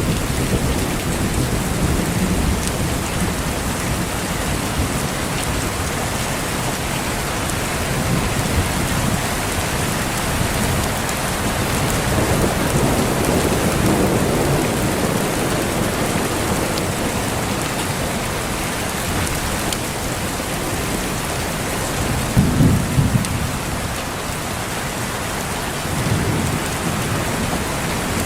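Steady heavy rain with low rumbles of thunder swelling up now and then; the loudest rumble comes about 22 seconds in.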